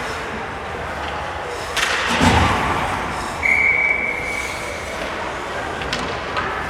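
Ice hockey rink: a loud thud about two seconds in, like a puck or player hitting the boards, then a single steady referee's whistle blast of about a second and a half.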